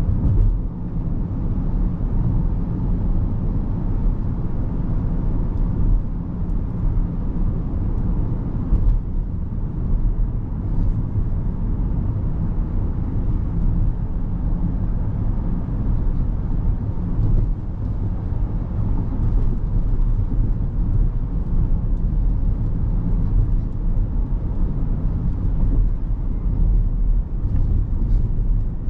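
Steady low road and tyre rumble of a 2023 Rivian R1S Quad Motor electric SUV driving, with no engine note.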